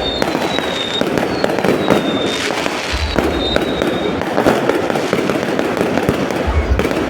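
New Year fireworks going off without a break: dense crackling and popping, with two deep booms and several high falling whistles.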